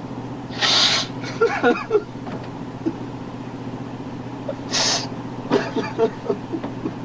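Steady low machinery hum, as of the patrol boat's engines, with two short loud hisses about four seconds apart. Each hiss is followed by a brief scatter of faint creaks and knocks.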